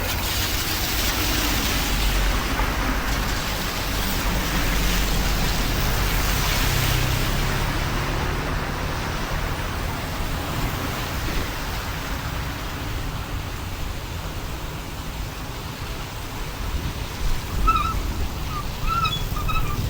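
Steady rushing of water with a low rumble underneath. Near the end come a few short high chirps.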